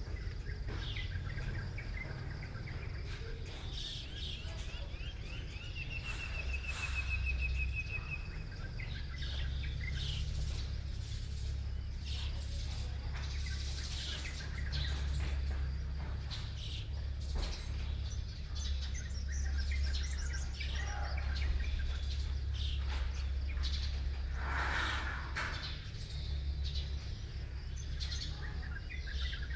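Small birds chirping in the early morning, scattered short calls with a fast, even trill about six seconds in, over a steady low hum.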